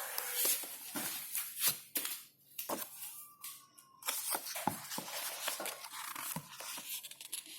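Paper rustling and handling, with scattered clicks and taps, as the pages of a book are turned.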